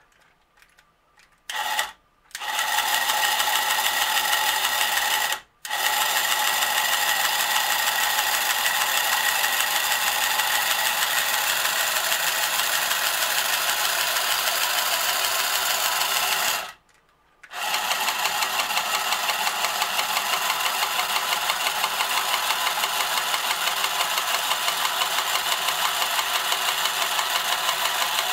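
Battery-powered Marx Moon Scout tin toy helicopter running: its small electric motor and rotor gearing whirr steadily with a fast flutter as the rotors spin and the gearing drives the wheels. The sound starts about two seconds in and cuts out briefly twice as the control button is let go.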